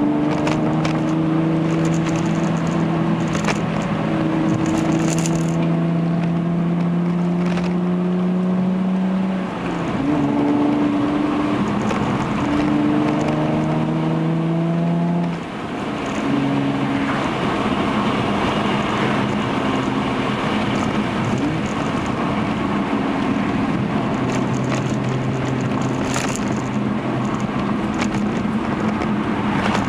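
Hyundai Genesis Coupe's 3.8 V6 through an aftermarket Young Motors cat-back exhaust, heard inside the cabin: the engine note climbs steadily as the car accelerates, drops with an upshift about ten seconds in, climbs again and drops with another shift midway, then settles into a steady cruise.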